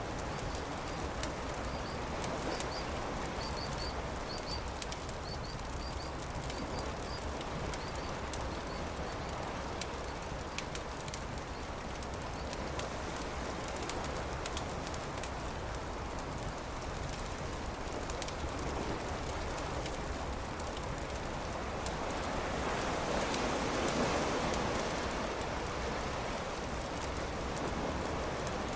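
Campfire crackling with scattered sharp pops over a steady rush of beach surf, which swells about three-quarters of the way through. A bird chirps in quick high pairs during the first several seconds.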